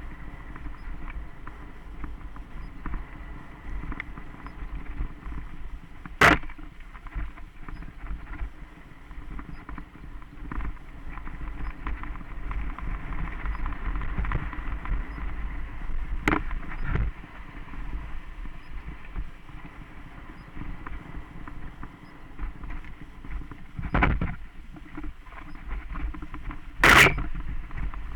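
Mountain bike riding over a dirt trail: a steady rolling rumble of tyres and frame, broken by five sharp knocks from bumps, the loudest near the start and near the end.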